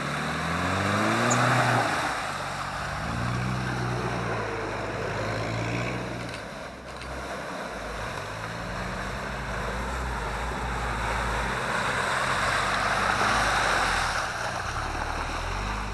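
Off-road 4x4 engine revving up and down repeatedly as the vehicle pushes through bog, over a steady wash of splashing water and mud.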